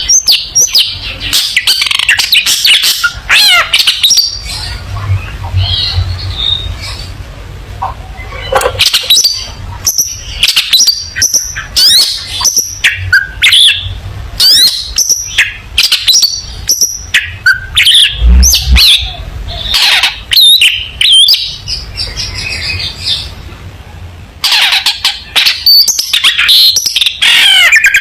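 Long-tailed shrike (cendet) singing a fast, continuous, varied song of chattering notes and quick whistled glides, with a brief lull about three-quarters of the way through.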